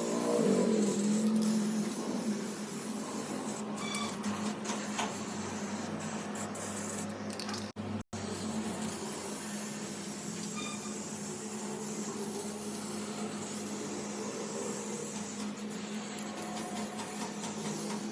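Steady whir of a small motor-driven workshop tool running with a constant hum, settling into its pitch at the start and breaking off briefly about eight seconds in.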